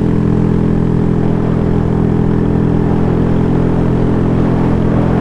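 Honda Grom's 125 cc single-cylinder engine running at a steady cruising speed, its pitch holding constant.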